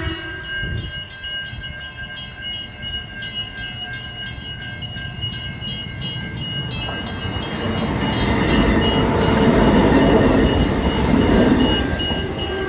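Level crossing warning bells ringing at an even pace while a test train passes through the crossing. The train's rumble builds from about seven seconds in, is loudest over the next few seconds, then eases.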